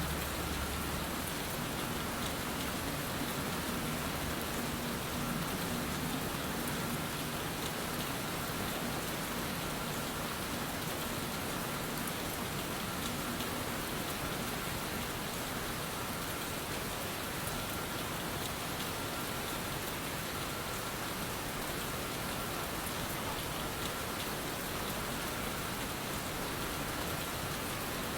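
Steady rain: an even hiss of falling rain that holds at one level throughout.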